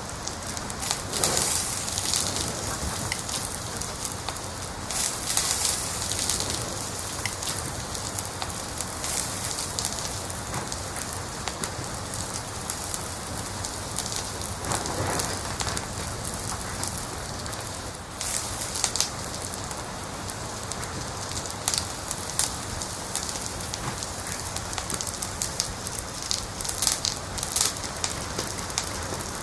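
Wood fire crackling in a fireplace: a steady hiss with frequent sharp crackles and pops, bunching into denser flurries a second or so in, again around five seconds, and near the end.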